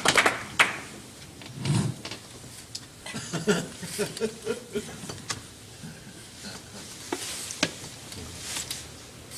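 Audience applause dying away within the first second, then a quiet room with a few faint murmured voices and scattered clicks and knocks.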